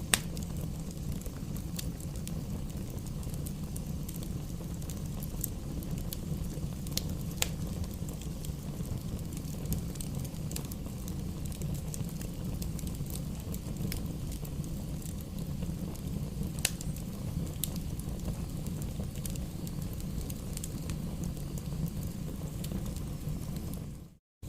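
Campfire burning: a steady low rumble of flames with scattered sharp crackling pops. There is a brief dropout to silence near the end.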